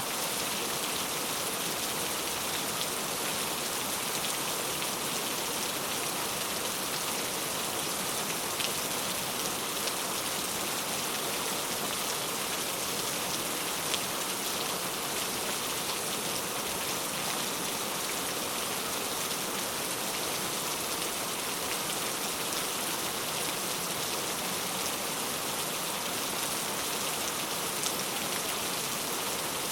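Steady rain falling, an even hiss of many drops, with a few louder single drop ticks here and there.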